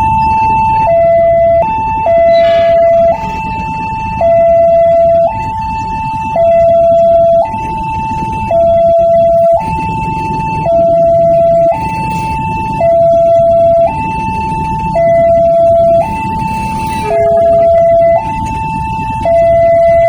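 Railway level-crossing warning alarm sounding a steady two-tone electronic signal, switching between a higher and a lower tone about once a second, over a low rumble.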